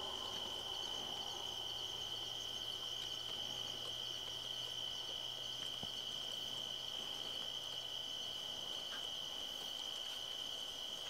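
Night insects chirring: a steady, high-pitched drone with a fainter hiss above it.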